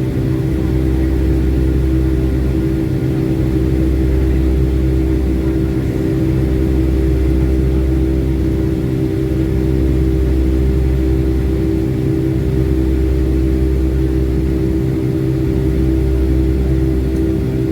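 Steady engine drone heard inside the cabin of a Boeing 757-200 in flight: a constant hum over a deep rumble that swells and eases every few seconds.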